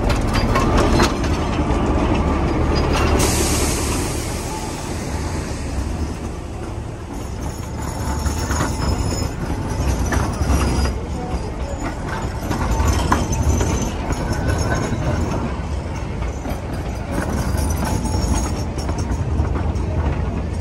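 Narrow-gauge diesel locomotive rumbling past close by, with a burst of hiss about three seconds in. Its coaches follow, wheels knocking over the rail joints every second or two with a thin intermittent wheel squeal.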